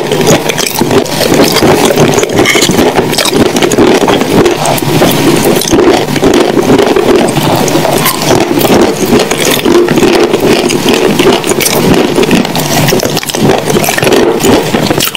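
Close-miked chewing of wet clay paste: continuous wet, sticky mouth sounds packed with small clicks, without a pause.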